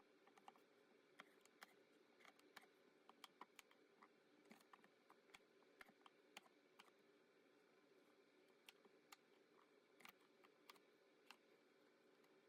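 Very faint, irregular knife taps on a cutting board as cucumbers are sliced, over near-silent room tone.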